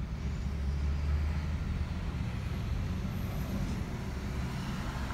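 Car engine idling in a slow-moving drive-thru queue, heard from inside the cabin as a steady low rumble that is strongest for the first couple of seconds.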